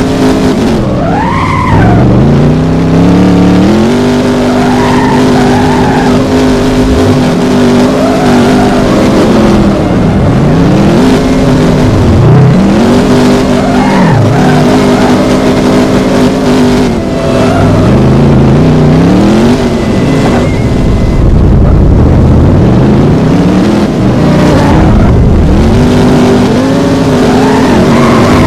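A car engine revving hard several times over, climbing quickly, holding at high revs for a few seconds, then dropping back before climbing again.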